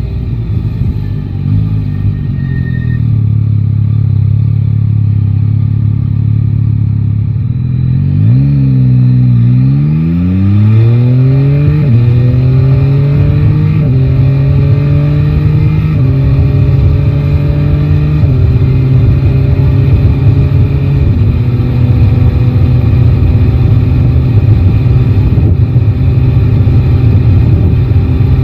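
Yamaha Tracer 9 GT's three-cylinder engine idling steadily, then pulling away at about eight seconds in and accelerating, its pitch rising and dropping back with an upshift roughly every two seconds, five or so times, before settling into steady cruising.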